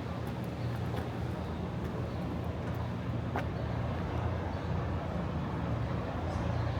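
Steady city traffic rumble, with a few faint clicks and a short high squeak about three and a half seconds in.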